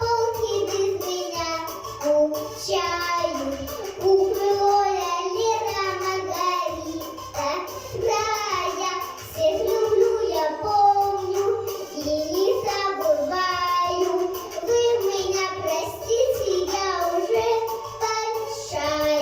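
A young girl singing a children's song in phrases over instrumental accompaniment.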